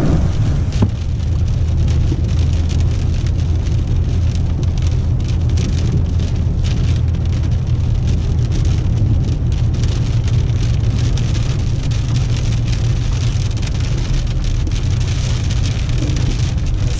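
Heavy rain falling on a car's windshield and roof, heard from inside the cabin, over the steady low rumble of the moving car. There is one sharp click about a second in.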